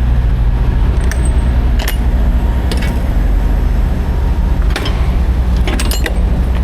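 Heavy truck's diesel engine running steadily, a low hum, with a handful of sharp rattles and clicks on top.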